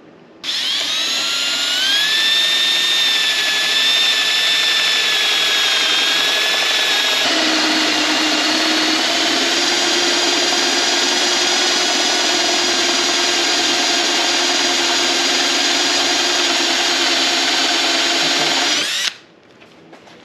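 Power drill running for about eighteen seconds, whining up to speed at the start, its tone shifting about seven seconds in, then stopping abruptly.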